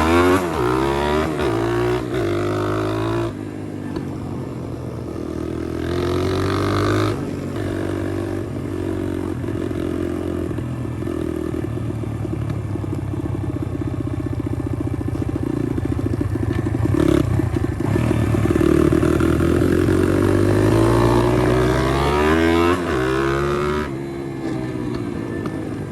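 Pit bike's small single-cylinder engine riding along, revving up and down in the first few seconds, then holding a steady speed through the middle. It climbs in revs again about two thirds of the way in and eases off near the end.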